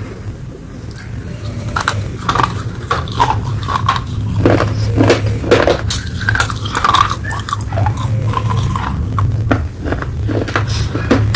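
Close-miked biting and crunching of hard, chalky baked earth, with a rapid run of sharp cracks and some squeaky grinding between the teeth, over a steady low hum.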